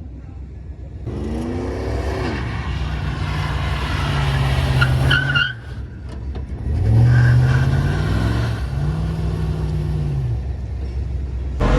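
Truck engine revving up and held at high revs, twice, its pitch climbing then dropping back each time, with a brief high squeal about five seconds in.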